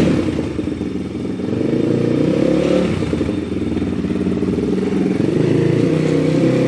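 Dirt bike engine running and being revved, its pitch rising and falling unevenly as the throttle is worked, just before the bike pulls away.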